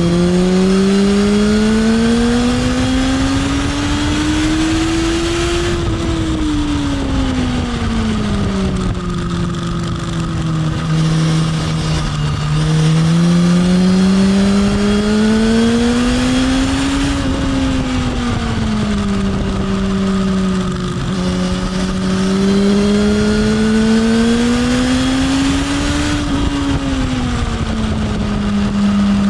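Sport motorcycle engine heard from on board at track speed: the revs climb steadily for several seconds and then fall away, three times, as the bike accelerates along the straights and slows for the corners, over a constant rush of wind.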